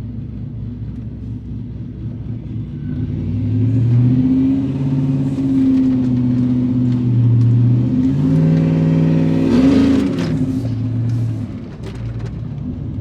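LS-swapped V8 in a Chevy pickup running and pulling: it gets louder about three seconds in, climbs in pitch to a peak about ten seconds in, then eases back off.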